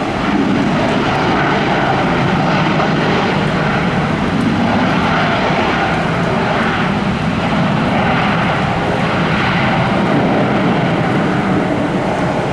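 Airliner engines nearby, a loud steady rush without clear pitch.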